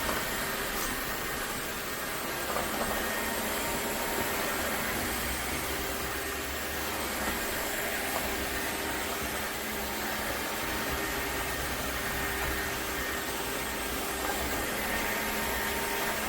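Dreame H12 Pro cordless wet-dry vacuum mop running steadily: an even motor-and-suction hiss with a faint steady whine over it.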